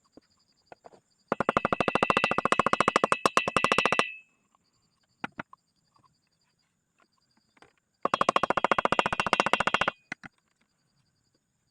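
Motorcycle engine salvaged from scrap, fitted with a bore kit and new carburettor, catching and running for about three seconds before dying. About four seconds later it runs again for about two seconds and dies.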